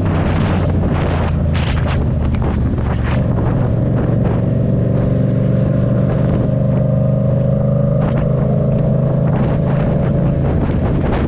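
Yamaha MT-07's parallel-twin engine running at a steady speed while riding, with wind buffeting the microphone in short gusts.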